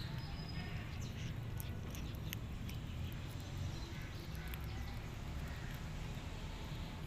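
Kittens eating chicken: scattered small chewing clicks and smacks over a steady low background rumble, with a brief high chirp near the start.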